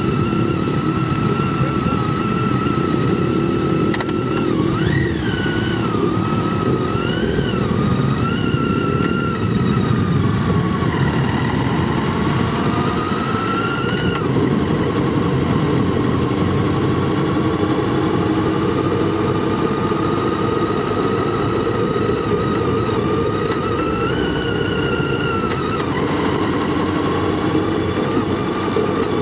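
Motorcycle being ridden, its engine running with a dense low rumble and a higher pitch that rises and falls with the revs, climbing steadily about halfway through.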